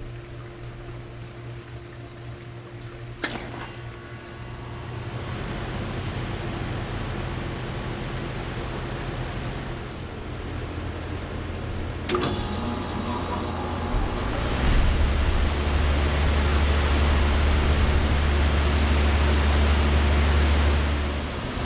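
Two outdoor heat pumps, a 2021 Concord and a 2004 Lennox Merit, each with a Copeland scroll compressor, starting up one after the other. A sharp click about three seconds in is followed by a rising steady whoosh as the first unit comes up. A second click comes about twelve seconds in, and then a strong low hum sets in and holds as the second unit runs.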